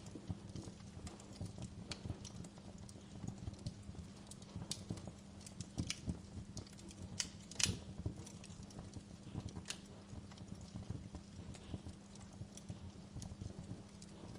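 Wood fire in a fireplace crackling, with irregular sharp pops and snaps over a steady low hiss. One louder pop comes about halfway through.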